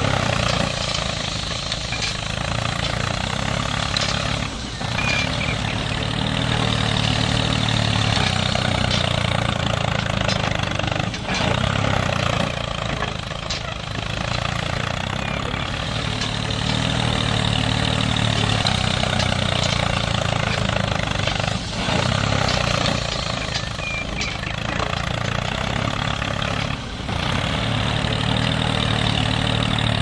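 Mini tractor engine running steadily as it pulls a cultivator, with a few brief dips in level.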